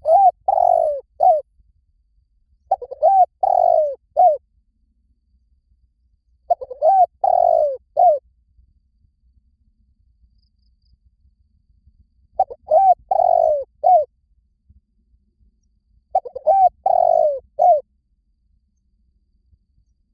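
Spotted dove cooing: a short phrase of three or four low coos, each note rising then falling, repeated five times a few seconds apart.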